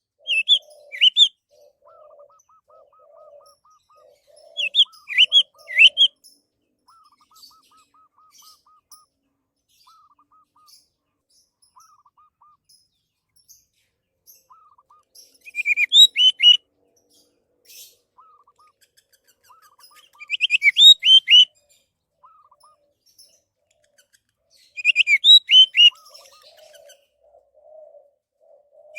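Orange-headed thrush singing: short loud phrases of quick, down-slurred whistled notes, five phrases spaced a few seconds apart. Between them other birds call faintly, with lower repeated chirps and pulsing notes.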